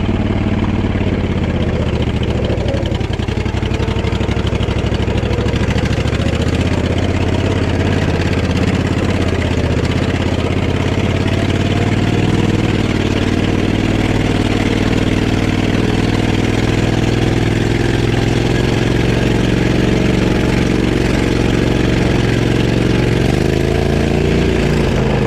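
Off-road vehicle engine running steadily under load on a hill climb, its pitch rising and falling as the throttle and load change, most noticeably in the second half.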